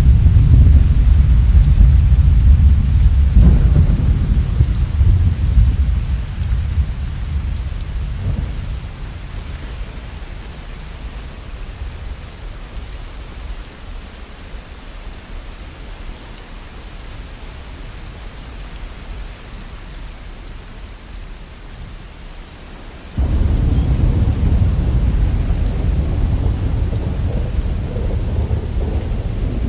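Heavy rain falling steadily, with thunder rumbling. A loud rumble dies away over the first ten seconds or so, leaving the rain alone, then a new rumble starts suddenly about 23 seconds in and carries on.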